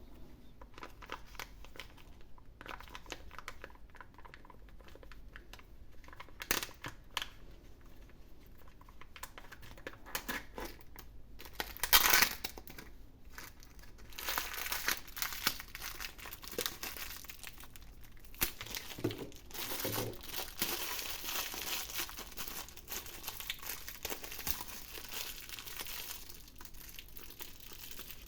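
Foil wrapper of a chocolate surprise egg crinkling and tearing as it is unwrapped by hand, in irregular crackles. There is a loud crackle about twelve seconds in, then denser crinkling through the second half.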